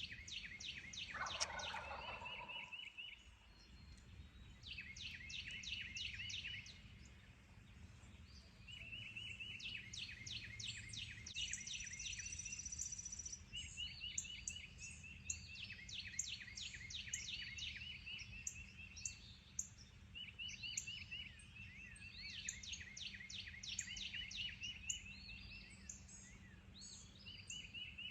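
Dawn woodland chorus of songbirds, with groups of rapid high notes and short trills repeating all through. About a second in, a wild turkey gobbles once, a brief lower rattling burst.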